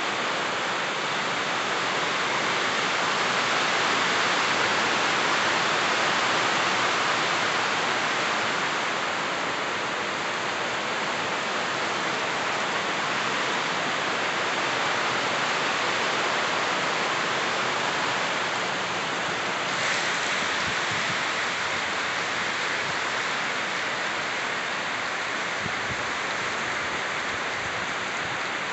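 Heavy rain pouring down steadily in a storm, a dense even hiss of falling water.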